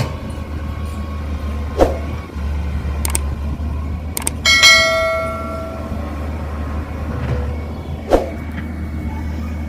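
A steady low hum with a few sharp knocks, and about halfway a metal clang that rings like a bell for over a second before fading.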